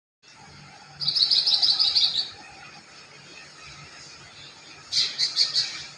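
A songbird singing: a fast chirping trill about a second in, then a short run of about four chirps near the end, over the steady rush of a river.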